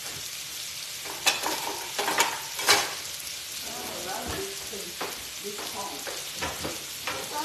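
Steaks and salmon fillets sizzling on a griddle: a steady frying hiss. Between about one and three seconds in, several sharp knocks and clatters stand out as the loudest sounds.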